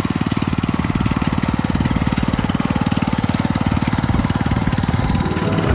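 Small tractor engine running steadily, its firing pulses heard as a rapid, even beat.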